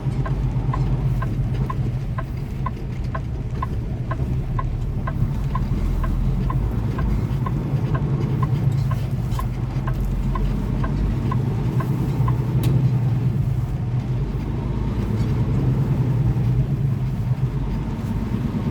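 Semi-truck diesel engine droning steadily as heard inside the cab while driving. For about the first eleven seconds a quick, regular ticking sounds over it, then it stops.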